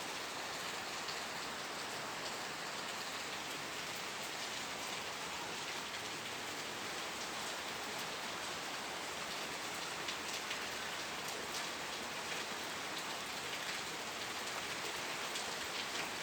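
Steady rain falling and pattering on a surface, with individual drop ticks scattered through it.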